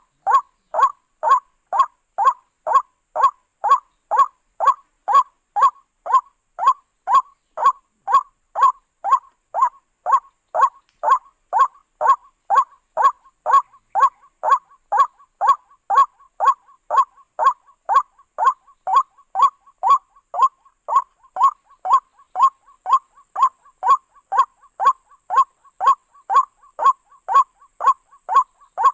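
White-breasted waterhen calling its 'kru-ak' over and over at a steady pace, about two calls a second, each a short falling note.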